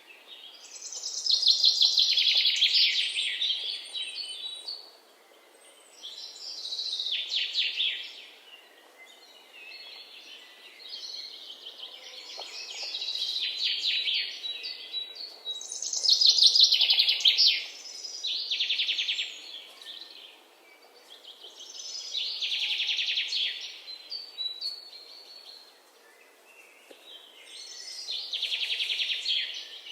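A songbird singing a high, rapidly trilled phrase of about two seconds, repeated six times with pauses of a few seconds between.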